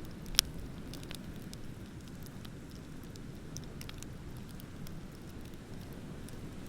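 Wood fire crackling, with sharp pops and snaps scattered through it and one loud pop just after the start, over a steady low rumble.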